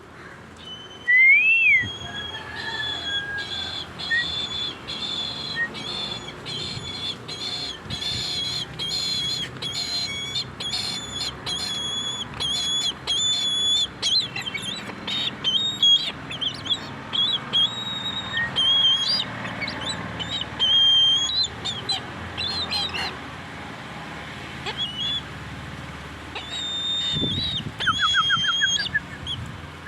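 A bird calling in a long rapid series of high, piping notes, pausing for a few seconds before a last burst near the end.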